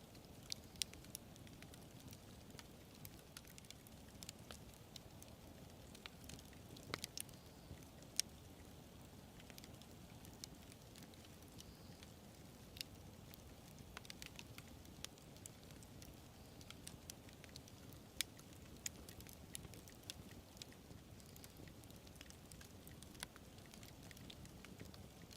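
Wood campfire burning quietly: irregular sharp crackles and pops over a faint low hiss of the flames.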